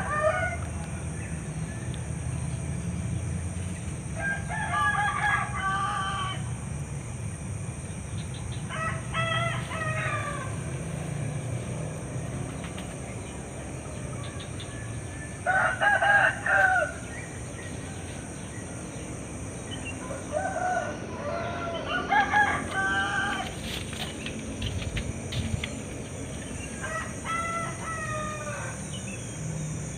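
Roosters crowing, a call of about a second or two repeating roughly every five seconds.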